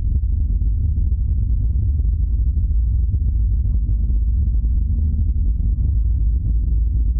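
Suzuki Every DA64V 4WD van on the move, with a steady low droning rumble from its running gear: the 'go-go' abnormal noise from the suspension.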